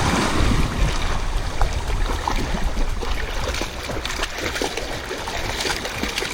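Sea water sloshing and splashing around someone wading in the surf, over a steady low rumble of water and wind buffeting the microphone.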